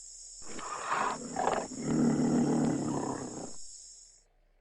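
A big cat roaring: a rough, throaty roar that swells, then fades away near the end.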